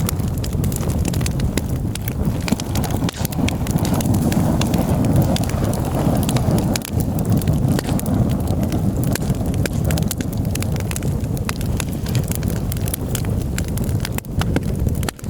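Wood fire burning in a fireclay-lined terracotta tile stove: a steady low rush of flame and draught with frequent sharp crackles and pops throughout.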